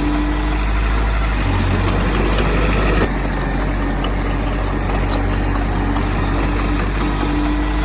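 Heavy diesel engine of earthmoving machinery running steadily, with an abrupt shift in the sound about three seconds in.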